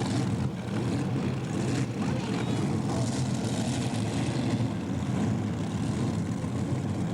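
Engine of a tractor-pulling machine running loud and steady under load.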